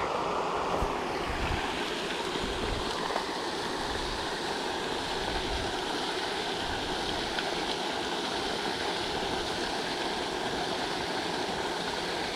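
Pond fountain spraying and splashing down onto the water in a steady rush, with a few low wind rumbles on the microphone in the first half.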